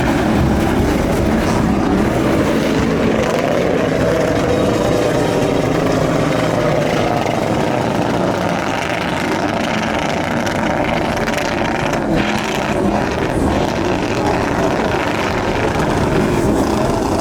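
Loud, continuous vehicle engine noise with a wavering pitch, as from engines revving, with a brief sharp knock about twelve seconds in.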